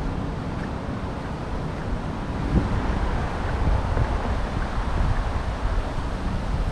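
Wind buffeting a GoPro Hero 8's microphone in gusts, a low rumbling rush, getting stronger from about two and a half seconds in.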